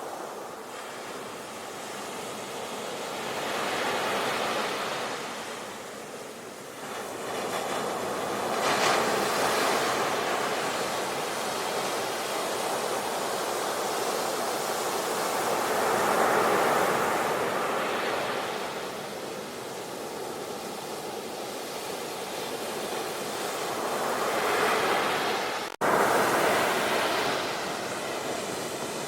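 Ocean surf, waves breaking and washing in and out, the noise swelling and easing about every seven or eight seconds. Near the end the sound drops out for an instant and comes straight back.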